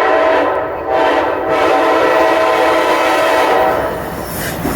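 SEPTA Regional Rail train led by an ACS-64 electric locomotive passing through a grade crossing, its horn sounding as a steady multi-tone chord over the rush of the train, then fading out about three and a half seconds in.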